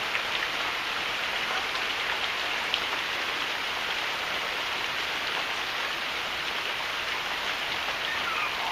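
Heavy rain falling steadily, with scattered drops ticking close by.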